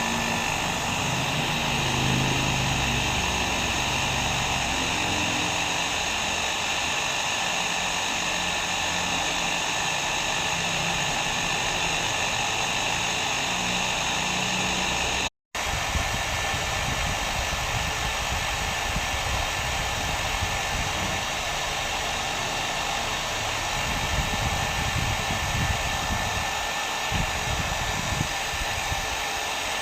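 Hair dryer blowing steadily: an even rushing hiss of air and motor with a faint steady whine. About halfway through it cuts out for a split second and resumes, a little rougher and more rumbling in the low end.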